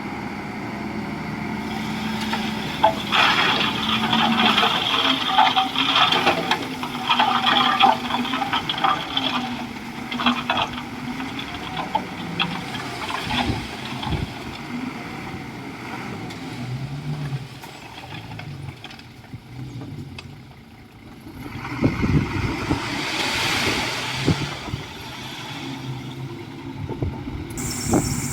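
Komatsu D41E bulldozer's diesel engine working under varying load, its pitch rising and falling, with a dense run of short clanks and cracks for several seconds early on. It drops quieter about 20 seconds in, then comes back louder.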